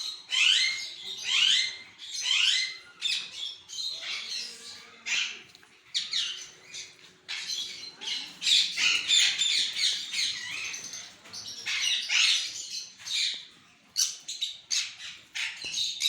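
A crowd of small birds chirping and squawking in a tree, many short calls overlapping without pause, some sweeping quickly upward in pitch.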